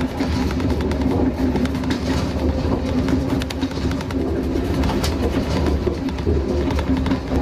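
Train running along the track: a steady low drone with scattered clicks of the wheels over the rails.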